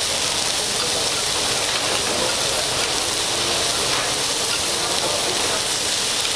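Fried rice ingredients sizzling steadily on a hot flat-top steel teppanyaki griddle while being stirred with metal spatulas.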